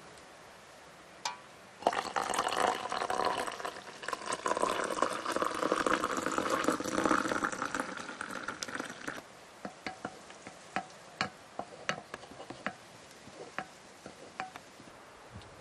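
Liquid pouring into a container for about seven seconds, followed by scattered small clicks and taps.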